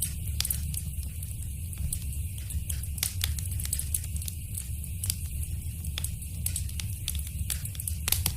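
Wood fire in a fireplace crackling, with frequent sharp pops over a steady low rumble of flames; a louder pop near the end.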